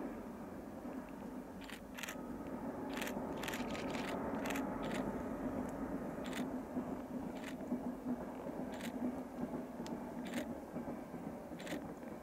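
Distant train running along a mountainside line, a steady rumble with a low hum. A dozen or so sharp, irregular clicks sound over it.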